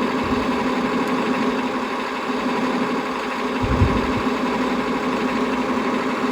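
Servonaut SM7 sound module playing a truck engine idle sound through the model truck's loudspeaker, heard while its equalizer is tuned for bass and treble. A brief low thump comes a little past the middle.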